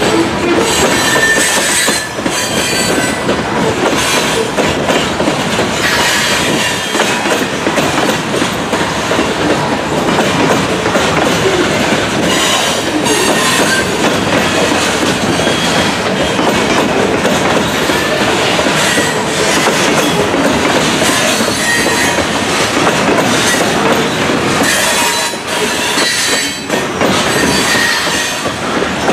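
Loaded grain hopper cars of a freight train rolling past, their wheels clattering over the rail joints, with brief high wheel squeals now and then.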